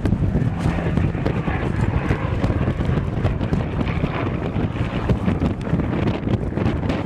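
Wind buffeting the microphone in a steady rumble, with the faint drone of an aircraft engine underneath.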